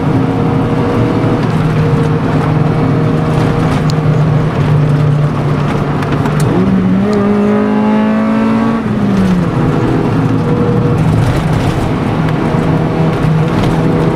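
Car engine and exhaust note at steady revs, over a steady hiss of wind. It drops in pitch just after the start, rises a little about six and a half seconds in, and drops again around nine seconds.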